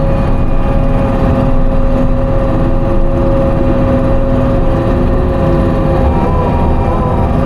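Timberjack 608 harvester's engine and hydraulics running steadily, heard from inside the cab, with a steady whine. In the second half higher tones waver up and down in pitch as the machine works.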